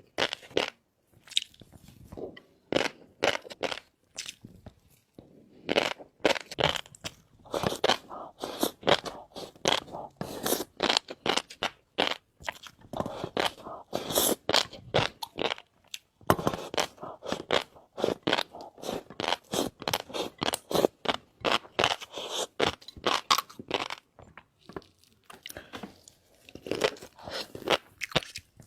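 Close-miked eating: crisp, rapid popping and crunching as fish roe and shrimp are bitten and chewed, a quick irregular run of small clicks with a few short pauses.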